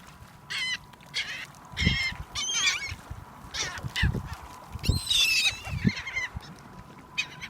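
A flock of seagulls squawking and calling over food, many short high calls overlapping, with a few low thumps.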